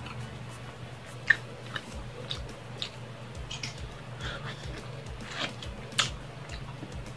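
Close mouth sounds of a person eating grilled meat and rice: chewing, wet smacks and sharp clicks. The loudest clicks come about a second in and again around six seconds, over a steady low hum.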